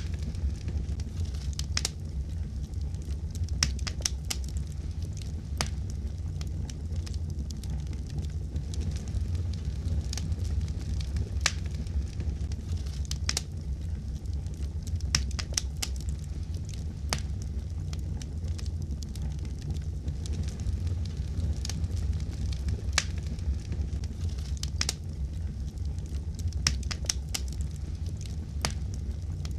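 Fireplace wood fire crackling: irregular sharp pops and snaps, several a second at times, over a steady low rumble of the flames.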